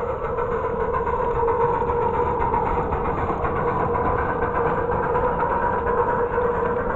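An engine running steadily at an even speed, with a rapid, even pulsing and a held hum.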